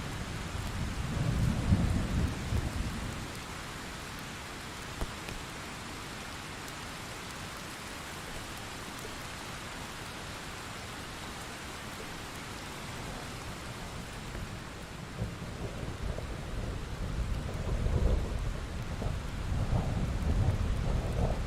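Thunderstorm: steady heavy rain, with rolling thunder rumbling in the first few seconds and again, building, over the last six seconds.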